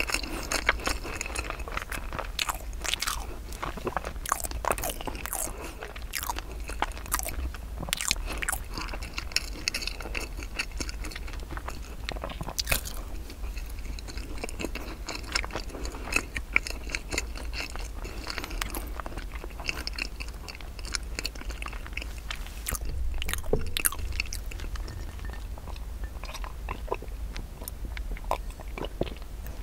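Close-miked chewing of soft, crumb-coated cream glutinous rice cake (chapssal-tteok): a dense run of wet smacks and small crunches.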